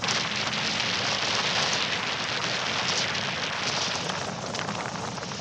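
Heavy rain pattering densely and steadily, starting and cutting off abruptly.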